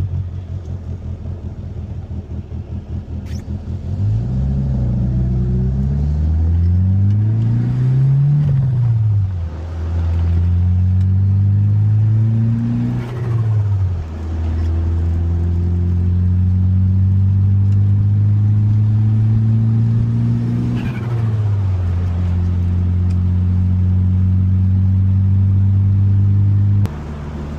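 1995 Mitsubishi Eclipse GSX's turbocharged 4G63 four-cylinder pulling away gently after a few seconds at low, uneven idle. Its pitch climbs and drops back at each of three upshifts, then holds steady at cruise until the throttle is lifted near the end.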